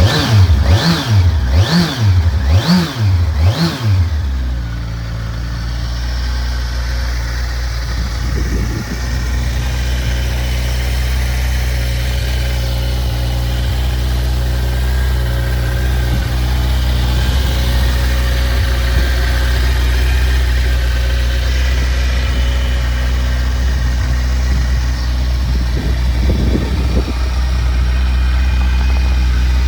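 Kawasaki Versys 1000 SE's inline-four engine, just started, revved in five quick blips and then settling to a steady idle.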